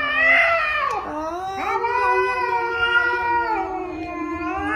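A pet cat or dog howling in long, drawn-out calls. One call ends just after the start, a long one runs from about a second and a half in to about four seconds, and a shorter one rises and falls near the end.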